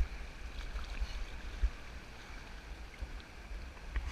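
Steady rush of whitewater around a paddled raft, an even hiss of moving water over a low rumble, with a soft knock about a second and a half in.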